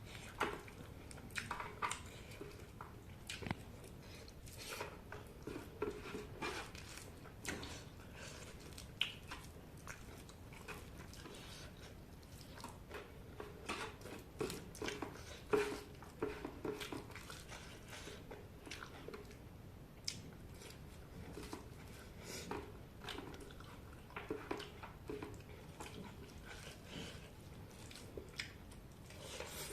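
A person eating chicken close to the microphone: steady chewing and biting, made up of many short, irregular mouth clicks.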